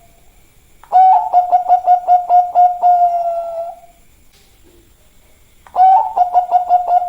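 Zebra dove of the Bangkok song type cooing: two phrases, each a sharp opening note followed by a quick run of pulsed coos on one low, steady pitch, the second phrase starting near the end.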